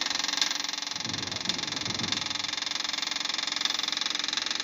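The Tennant 255 sweeper's fuel pump buzzing steadily with the key on, priming fuel through a newly replaced fuel line.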